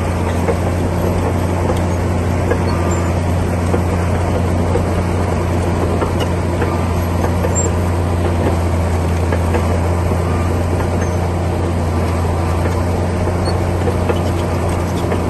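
Komatsu D60P bulldozer's diesel engine running steadily, a loud low drone that holds the same pitch throughout.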